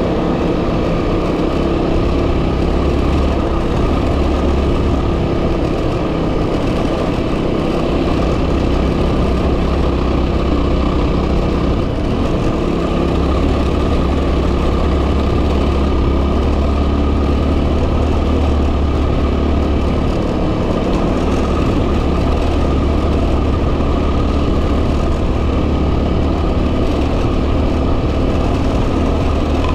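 A 2010 Yamaha WR250R's single-cylinder four-stroke engine running steadily while riding, under heavy wind noise on the microphone.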